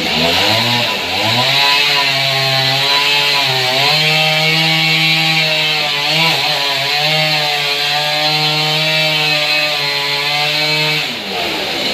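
Sawmill saw cutting through a large trembesi (rain tree) log. Its motor holds a steady tone over the hiss of the cut, sagging briefly twice as the blade bites, then winds down near the end.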